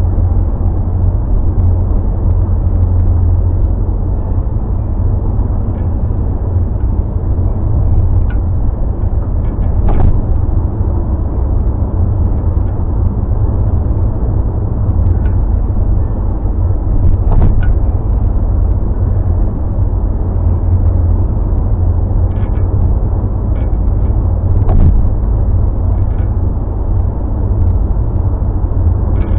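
Steady low road and engine rumble of a car being driven, heard from inside the cabin, with a few brief light knocks and rattles now and then.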